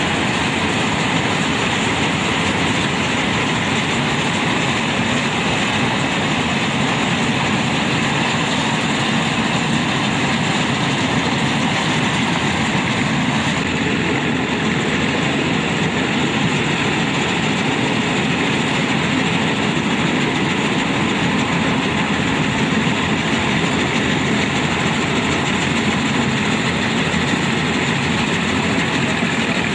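Tractor-mounted 4WD combine harvester running, a loud steady machine noise with rumble and clatter that holds unchanged.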